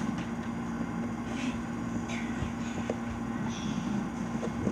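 A steady hum at one pitch, like a fan or appliance running, over a constant background noise, with a few faint soft knocks and rustles of movement.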